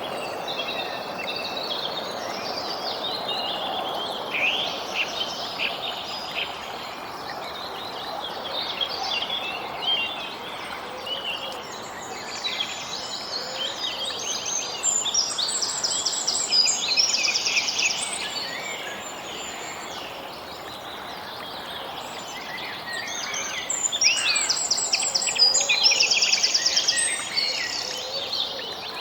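Songbirds chirping and trilling over a steady rushing background hiss, with bursts of rapid trills about halfway through and again near the end.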